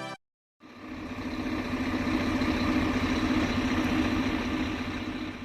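Large vehicle's engine running steadily with an even pulsing beat, fading in after a moment of silence and fading out near the end.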